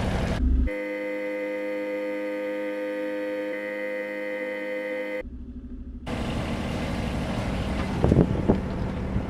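A boat's engine running, broken about a second in by a steady pitched tone that holds for about four seconds and stops suddenly; the engine noise returns for the last few seconds.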